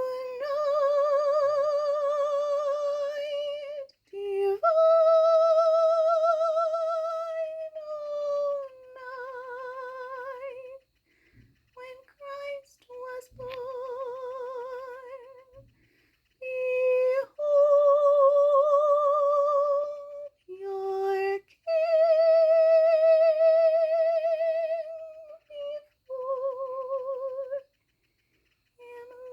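A woman's voice singing long held notes with a wide vibrato, phrase after phrase with short breaths between, without recognisable words.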